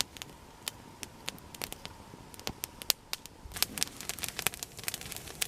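Newly lit campfire crackling, with irregular sharp pops and snaps that come thicker about three and a half seconds in.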